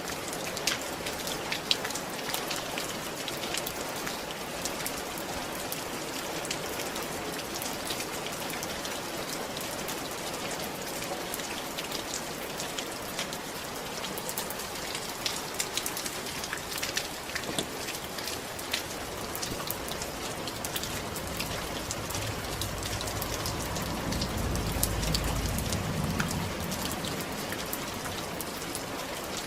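Steady rain falling on a roof: an even hiss with many sharp drop ticks. A low rumble swells and fades about three quarters of the way through.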